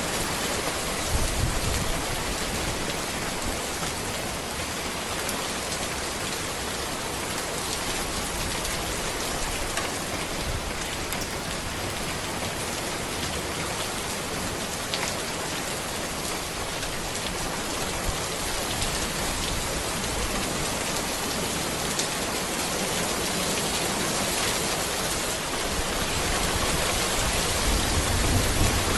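Steady heavy rain falling on a road among trees: a continuous hiss with scattered sharper drop hits. A low rumble swells briefly about a second in and again near the end.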